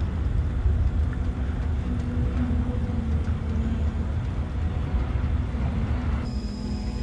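Steady low outdoor rumble from a storm field recording. Music with sustained tones comes in near the end.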